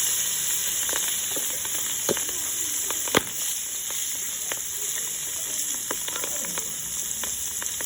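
Fish deep-frying in hot oil, a steady sizzle with scattered crackles and pops; one sharp pop stands out about three seconds in.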